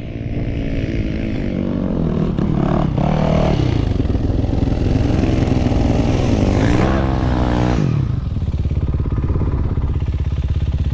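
Dirt bike engine running under throttle while riding, its pitch rising and falling as it revs, then holding steady for the last few seconds.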